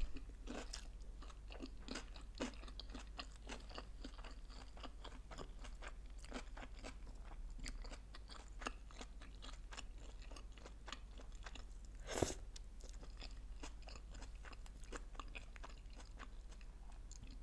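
Close-miked chewing of sushi rolls: a steady run of small wet clicks and soft crunches, with one louder crunch about twelve seconds in.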